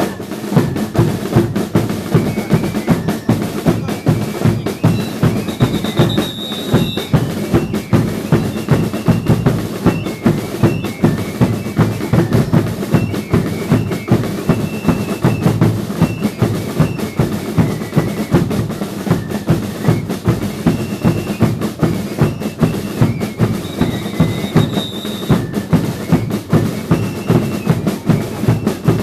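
Drums of a Chilean religious dance troupe (baile de indios) beating a steady, driving rhythm, with short high-pitched held notes sounding above the drumming now and then.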